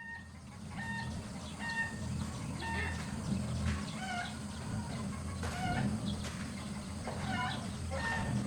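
Chickens clucking: short calls repeating about once a second, coming thicker and faster in the second half, over a steady low rumble.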